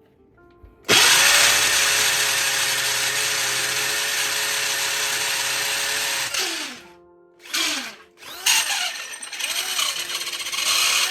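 Corded electric drill boring a hole through a wall. It starts about a second in and runs steadily at full speed for about five seconds, then winds down. After a short burst it runs again with the trigger eased on and off, so its whine rises and falls over and over while the bit works through the wall without being pushed too hard.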